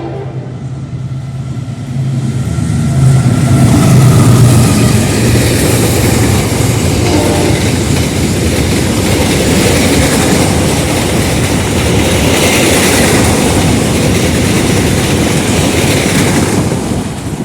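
Passenger train hauled by a General Electric diesel locomotive passing close by at speed. A low engine hum rises about two seconds in to the loud, steady rolling noise of the carriages on the rails, which drops away sharply near the end.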